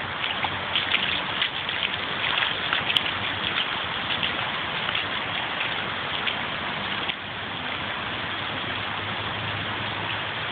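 Floodwater rushing and splashing in a steady stream.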